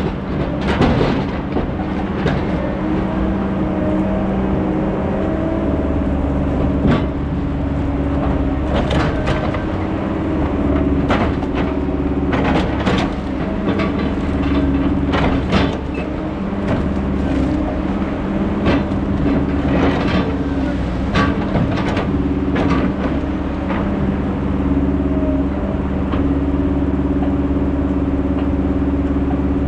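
Heavy logging machine's engine running steadily, with repeated sharp metal clanks and knocks scattered through it.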